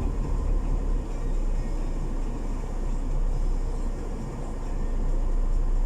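Steady low rumble of an idling truck diesel engine, heard from inside the cab.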